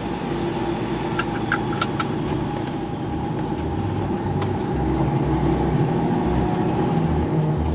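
Diesel engine of an HGV truck running, heard from inside the cab as a steady low rumble, with a few short ticks between about one and two seconds in.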